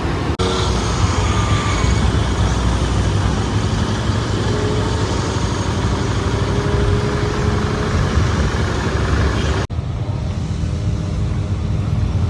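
Steady low rumble of road vehicle noise. It breaks off abruptly twice where clips are joined: once less than half a second in, and again about two and a half seconds before the end.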